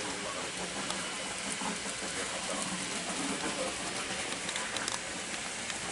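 N gauge model train running on the layout's track: a steady rattling hiss of wheels on the rails, with a few faint clicks near the end.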